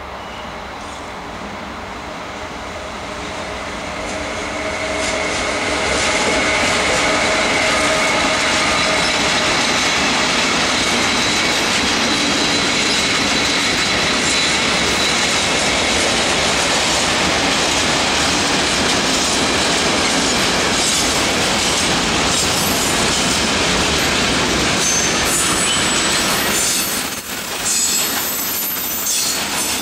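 Mixed freight train passing: the sound grows over the first six seconds as the electric locomotive nears, then the long string of freight wagons rolls by in a steady loud rumble of wheels on rails.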